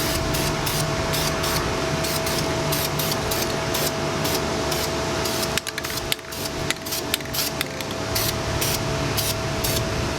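Aerosol can of Dupli-Color semi-gloss engine paint spraying in short repeated bursts, with a steady hum underneath.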